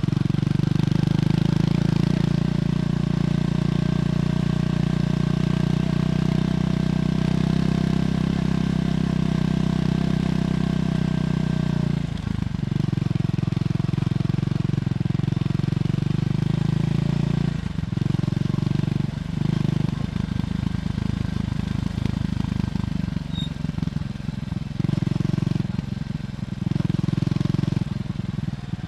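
Triumph Scrambler 400X's single-cylinder engine running through its stock exhaust, at a steady throttle for about twelve seconds, then easing off, with the note dipping and coming back several times in the second half.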